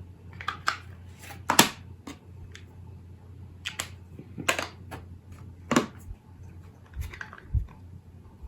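Scattered light plastic clicks and clacks of Distress ink pad cases being picked through and handled, about nine separate knocks, the loudest about one and a half seconds in.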